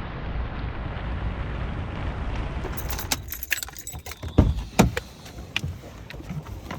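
Keys jangling and clinking over a low steady rumble, with two louder knocks a little past halfway.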